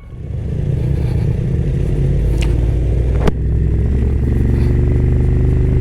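BMW F900R's parallel-twin engine running at a steady idle, building up over the first second and then holding even, with two sharp clicks near the middle.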